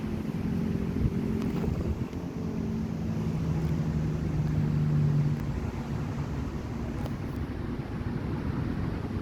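Exhaust fan running: a steady low hum over a rush of moving air, the hum swelling for a couple of seconds around the middle.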